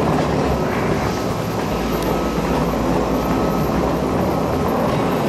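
A JR Takasaki Line electric commuter train standing at the platform, giving a steady, deep rumbling noise while its cars wait to be uncoupled.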